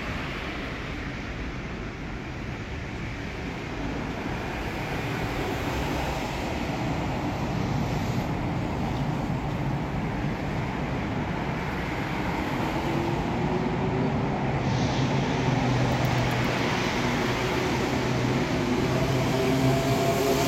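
Electric commuter train running, a steady rumble and rush that grows louder; about two-thirds of the way in, the traction motors' whine rises slowly in pitch as the train gathers speed.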